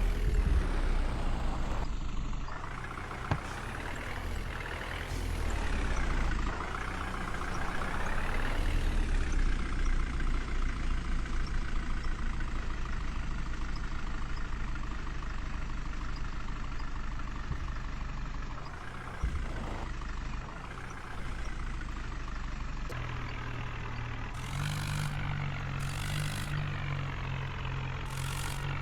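Heavy diesel engine running, its pitch rising and falling as it is revved for the first several seconds, then settling to a steady run. Near the end a deeper engine tone joins in and three short hisses sound.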